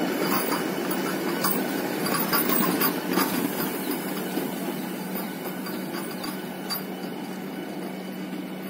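Vande Bharat Express electric train running by, wheels clicking on the rails for the first three seconds, then the run-by noise fading steadily over a constant low hum.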